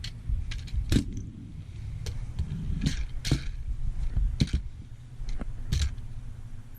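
A handboard rolling on a quarter pipe: a steady low rumble of small wheels broken by sharp, irregular clacks of the board striking the ramp, about six in all.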